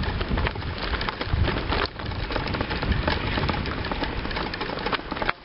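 Bicycle tyres rolling over a gravel towpath: a continuous crunching crackle with many small clicks and rattles from the bike.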